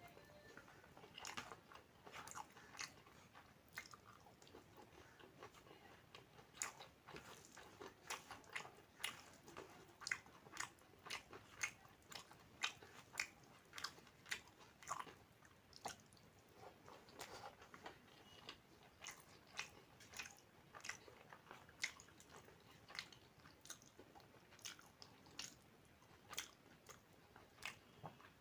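A person chewing food close to the microphone: a steady run of sharp mouth clicks, about one or two a second.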